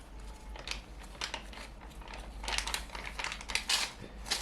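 Paper food wrappers crinkling and rustling in irregular short bursts as fast food is handled.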